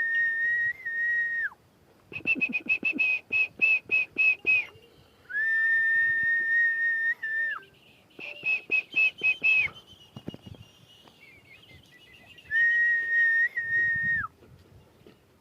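Clear whistled notes: a long held note that slides down at its end, then a quick run of short, higher notes, with the pattern repeated.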